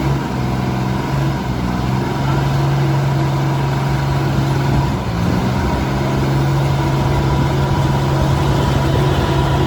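Diesel engine of a heavy earthmoving machine running steadily, its pitch dipping and recovering about five seconds in, with a faint steady whine above it.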